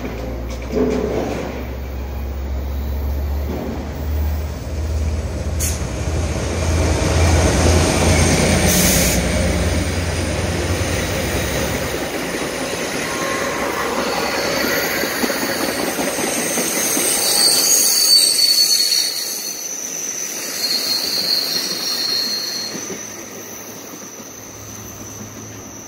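AMT (exo) commuter train passing close by. The diesel locomotive's engine rumbles as it comes by over the first dozen seconds, then the Bombardier bilevel coaches roll past with their wheels squealing in high steady tones, and the sound fades near the end.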